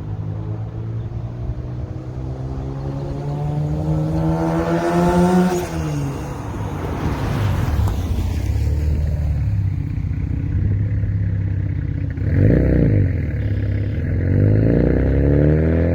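Turbocharged 2.7 L V6 of a 2005 Hyundai Tiburon, running with its pitch climbing gradually for about five seconds and then dropping sharply, followed by a couple of seconds of rushing noise. It then runs steadily, gives one quick rev up and down about two-thirds of the way through, and climbs again near the end.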